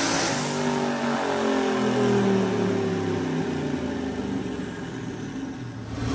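Turbocharged small-block Ford V8 in a pickup coming off the throttle at the end of a dyno pull: its revs fall steadily over several seconds.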